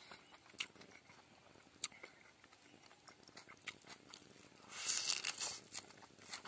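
Close-up eating sounds: scattered wet mouth clicks and smacks, then about five seconds in a short burst of crunching as a fresh mustard leaf is bitten and chewed.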